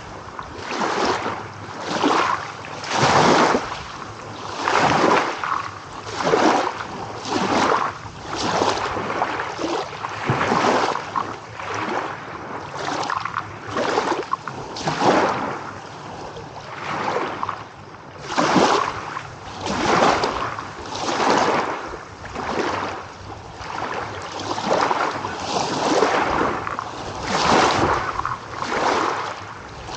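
Small waves lapping and splashing in quick succession, each surge of water rising and falling in about a second.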